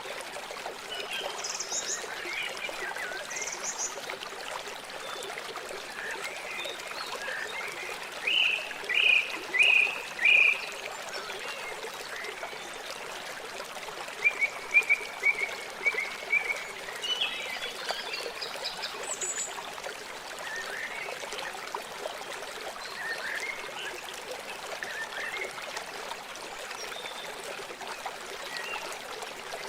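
River water flowing steadily with a constant rushing sound. Clusters of short, loud chirping calls rise above the flow at intervals.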